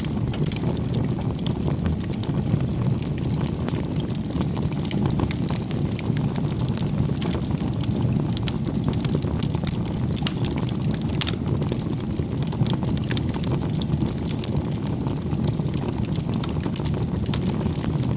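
Wood fire crackling: a steady low rushing of the burning fire with frequent sharp little pops and snaps scattered over it.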